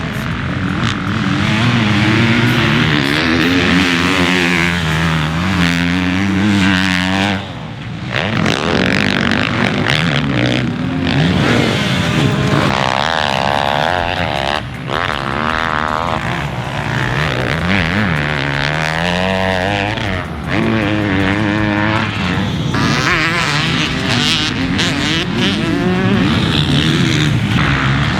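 2021 Husqvarna FC250's 250cc four-stroke single-cylinder engine revving up and down repeatedly as the motocross bike is ridden hard. The engine note drops away briefly three times.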